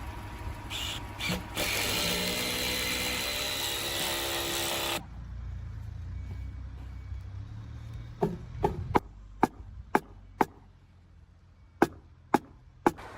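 Building work with hand and power tools: a power tool runs with a whine for about five seconds and stops suddenly. A few seconds later come about nine sharp knocks, roughly half a second apart, in two runs.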